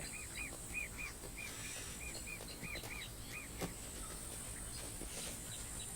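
Quiet natural ambience: a bird giving a string of short, quick up-and-down chirps that stop about halfway through, over a steady high-pitched insect drone, with a couple of faint clicks.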